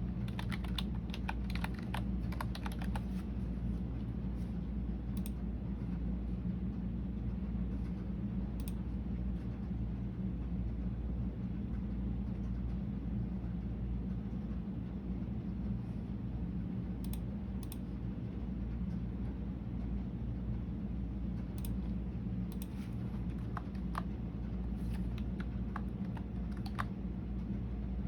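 Typing on a computer keyboard: a quick run of keystrokes in the first few seconds, then scattered single keystrokes and short runs, over a steady low hum.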